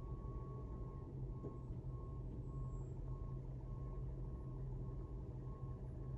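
Tractor-trailer's reverse alarm beeping steadily, about one and a half to two beeps a second, over the low rumble of its idling diesel engine as the truck backs up.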